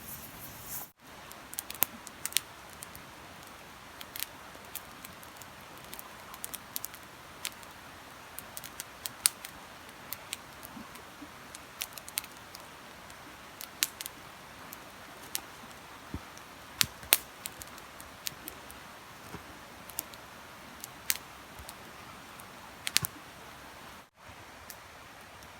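Campfire crackling: scattered, irregular sharp pops and snaps over a steady hiss.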